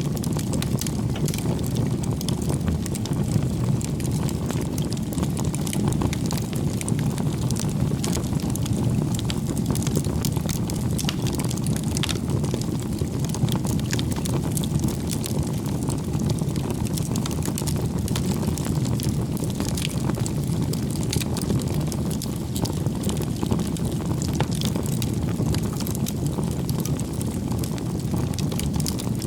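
Wood campfire burning: a steady low rush with scattered small crackles and pops throughout.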